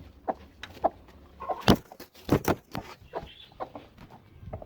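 A run of sharp, irregular clicks and knocks, loudest about two seconds in, as a hen sitting on eggs is handled and lifted off the nest.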